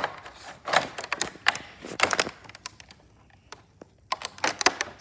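Irregular sharp taps and scrapes of a small hand tool chipping at a fossil-dig block, pausing briefly about halfway through before starting again.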